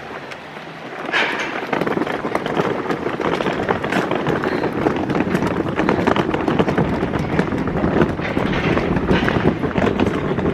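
Suitcase wheels rattling over paving as the luggage is rolled along, a continuous clatter that starts about a second in.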